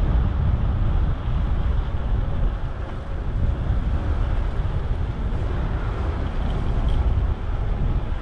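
Steady wind rumble on the microphone of a camera riding along on a bicycle, mixed with street traffic noise.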